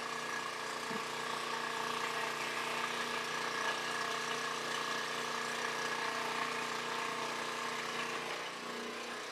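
Electric fuel transfer pump running steadily while diesel is pumped into a combine, a constant motor whir.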